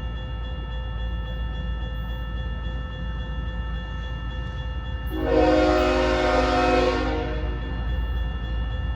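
Freight locomotive horn blowing one long blast about five seconds in, over the steady low rumble of an approaching freight train at a grade crossing.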